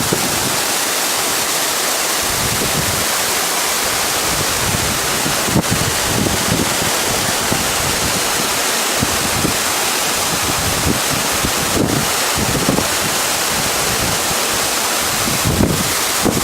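Waterfall: a loud, steady rush of falling water, with wind buffeting the microphone in irregular low gusts.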